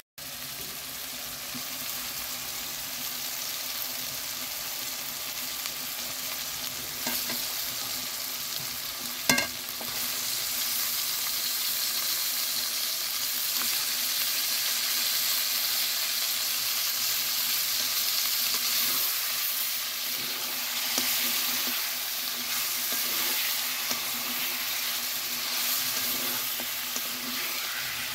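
Chicken curry sizzling and frying in a steel karahi over a gas flame, with a metal spatula stirring and scraping through it. There is one sharp knock about nine seconds in, and the sizzle grows louder after it, once raw chicken pieces are in the hot gravy.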